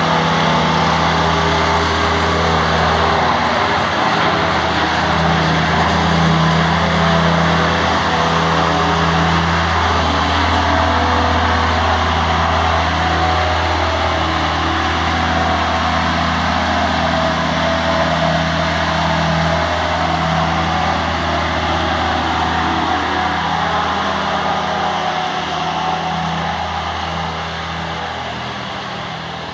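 An engine running steadily with a low hum, easing slightly in loudness near the end.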